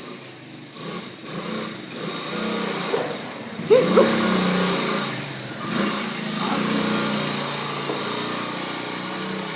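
Quad bike's small engine running, revving up and down unevenly.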